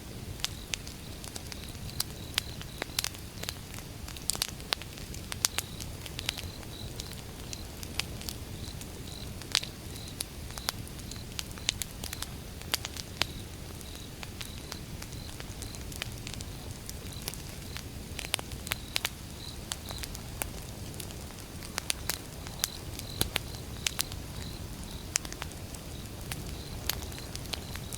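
Campfire of burning wood: irregular sharp crackles and pops from the logs over a low, steady rumble of flame.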